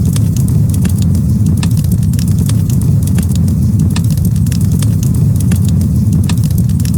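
Campfire crackling, with frequent sharp irregular pops over a steady low rumble.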